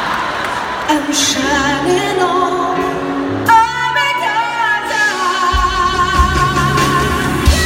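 A solo voice singing a pop ballad over band accompaniment, with long held notes. A steady drum and bass beat comes in about five and a half seconds in.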